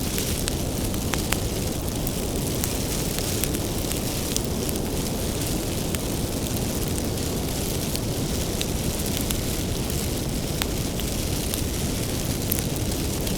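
Wood fire burning with a steady low rush and scattered sharp crackles and pops of burning firewood, sparser in the middle stretch.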